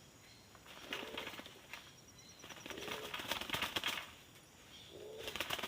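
A dove cooing three times, about two seconds apart. Each short low coo comes with a dense run of rapid rattling clicks or flutters.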